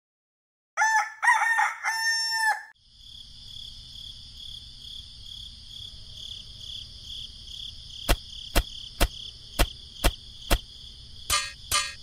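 A rooster crows, three calls in quick succession, the last one long. Then a steady high insect chirring sets in, and from about two-thirds of the way in there is a run of sharp taps, about two a second.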